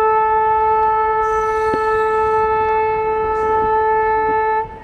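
Locomotive horn sounding one long, steady blast on a single pitch, cutting off near the end.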